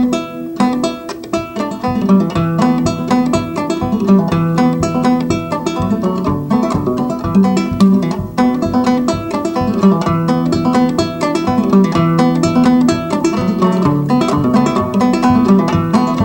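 Solo banjo picking an old-time tune: a quick, steady run of plucked notes over repeated low notes.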